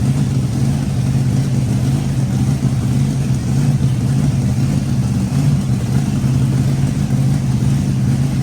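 Supercharged 377 cubic inch small-block Chevy V8 on alcohol, with an 8-71 blower, running steadily at idle: a loud, even low-pitched engine note with no revs.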